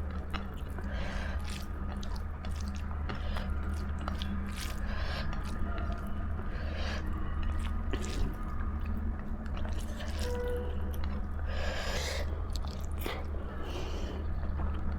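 Close-up chewing of dal chawal (rice with lentils), wet mouth sounds coming and going, over a steady low hum.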